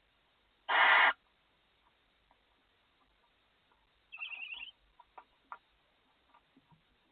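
Barn owls in a nest box: one short, loud, harsh hiss about a second in, then a quieter rapid chittering call around four seconds in, followed by a few faint clicks and scratches.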